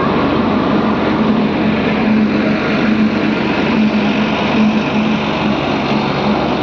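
Diesel engine of heavy farm or earthmoving machinery running steadily, with a steady low hum.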